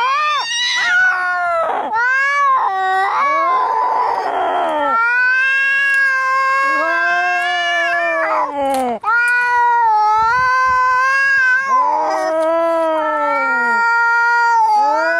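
Cats fighting: long, wavering yowls one after another, some overlapping, with a short harsh, noisy outburst about four seconds in.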